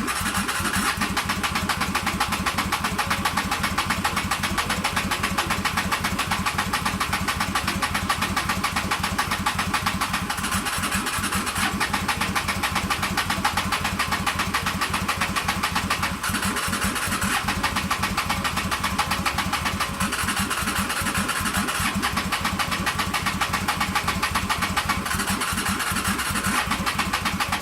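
Motorcycle engine cranking on its electric starter without catching, a steady fast pulsing churn held for nearly half a minute that cuts off suddenly near the end. The engine never fires up or revs: a no-start.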